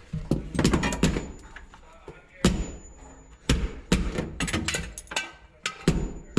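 A refrigerator bumping and knocking against a cellar doorway as it is turned and pushed through: a run of separate thunks and knocks, a cluster near the start, then single hits about every half second to a second.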